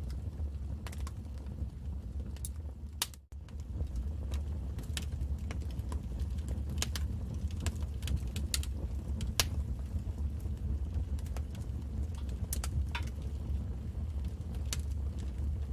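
Wood fire burning in a fireplace: a steady low rumble with sharp, irregular crackles and pops. The sound cuts out briefly about three seconds in, then resumes.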